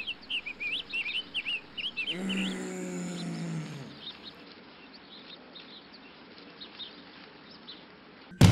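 Small birds chirping in quick, high runs over the first two seconds, then fainter scattered chirps. About two seconds in, a low drawn-out sound that falls slightly lasts nearly two seconds.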